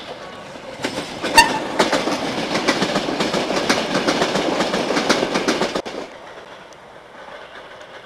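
Ex-DB class 624 diesel multiple unit passing close beneath, wheels clattering rapidly over rail joints, with a short sharp tone about a second and a half in. The noise cuts off abruptly at about six seconds, leaving a fainter, more distant train sound.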